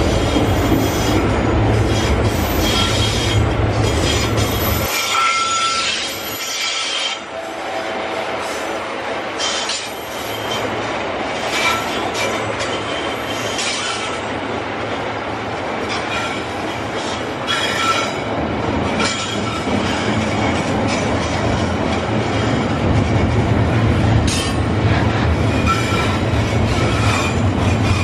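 Loaded freight wagons rolling past with a continuous wheel rumble and short bursts of high wheel squeal that come and go. The low rumble drops off for a few seconds after about five seconds in, then returns.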